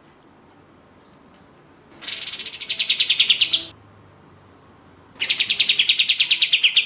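Kapas tembak (ashy tailorbird) singing: two bursts of about a second and a half each, a rapid machine-gun run of high notes, about a dozen a second, sliding down in pitch.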